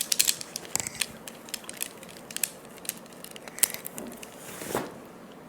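Irregular sharp clicks and taps of small hard objects being handled, dense at first and then scattered every second or so, with a short rasping sound about four and a half seconds in.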